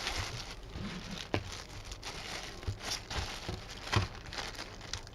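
Plastic packaging crinkling and rustling as a parcel is handled, with a few sharp clicks and knocks.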